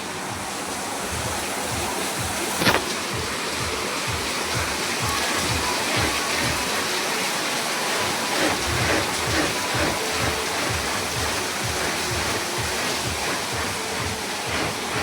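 Heavy rain falling steadily, with one sharp knock about two and a half seconds in.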